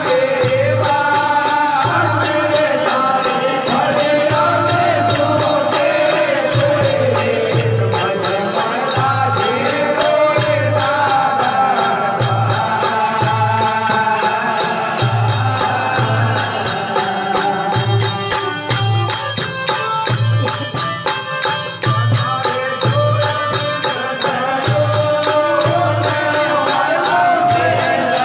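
Desi bhajan devotional folk music: a wavering melody over a steady beat of low drum strokes and rapid jingling cymbal strikes.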